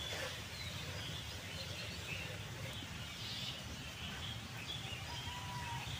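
Quiet outdoor background with scattered bird chirps over a low steady rumble, and one longer steady note about five seconds in.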